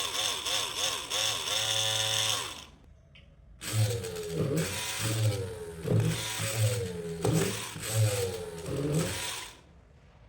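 Homemade drill's 555 DC motor whining in short on-off bursts, its pitch rising and falling with each press, then, after a short pause, running again for about six seconds with its pitch dipping and recovering several times, with a few sharp clicks.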